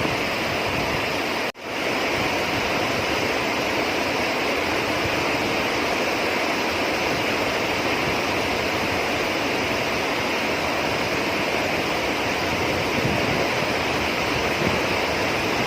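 Heavy rain falling, a steady dense hiss, with the sound cutting out for an instant about a second and a half in.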